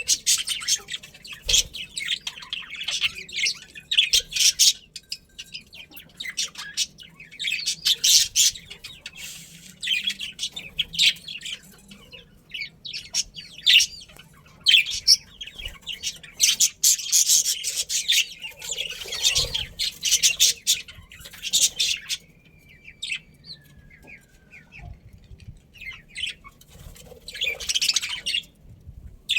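Budgerigars chattering and chirping in fast, high-pitched bursts that come and go, with a quieter stretch about two-thirds through.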